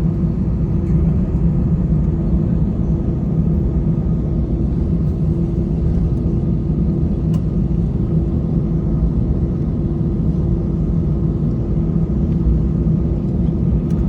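Cabin of an Airbus A320 on the ground: a steady low rumble with an even engine hum, unchanging throughout.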